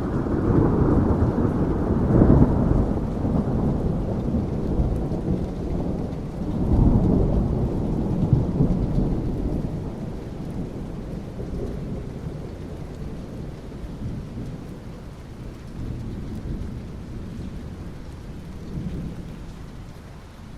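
Thunder rumbling over steady rain: a long low roll that swells at the start, swells again about seven seconds in, then slowly dies away.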